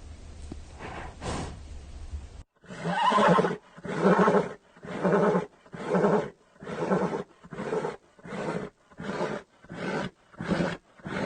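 A large animal calling in a rhythmic series, starting about two and a half seconds in: loud pulsed calls about one a second, each getting shorter and coming quicker.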